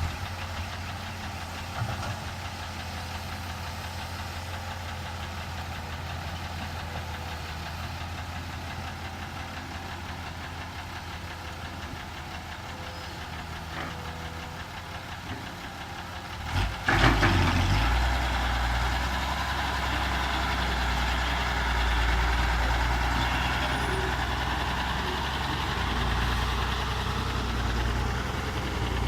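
Heavy diesel engine of earth-moving machinery running at low revs, then a sudden clunk about 17 seconds in, after which the engine runs louder and harder under load.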